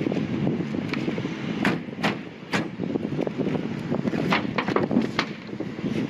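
Wind buffeting the microphone, with scattered sharp clicks and scrapes of hand tools working on a sheet-metal roof.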